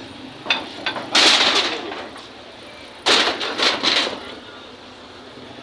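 Demolition crashes: a sharp knock, then two loud crashes about two seconds apart, each lasting about a second, the second made of several quick strikes.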